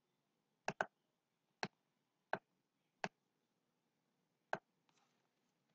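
Computer mouse clicking: a quick double click about 0.7 s in, then four single clicks spaced unevenly, the last near 4.5 seconds.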